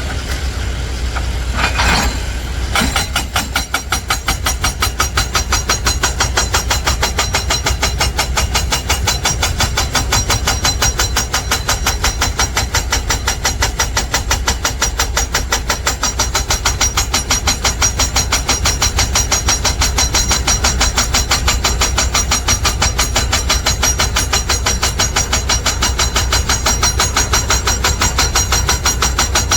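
Heavy diesel construction machinery running, with a rapid, even pulsing of about six beats a second over a deep rumble.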